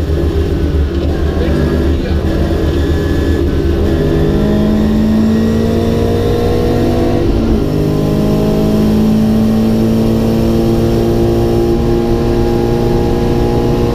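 Rally car engine heard from inside the cabin, pulling steadily with its note creeping slowly upward, with a short dip about halfway through, over a low rumble of road noise.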